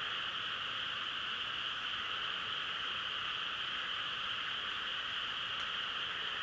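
Dense chorus of many frogs calling at once, blended into a steady, unbroken high trilling with no single call standing out.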